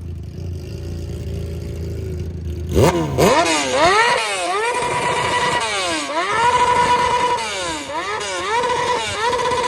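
Motorcycle engine idling, then from about three seconds in revved hard again and again. Each rev climbs quickly to a high-pitched hold at the rev limiter and then drops back.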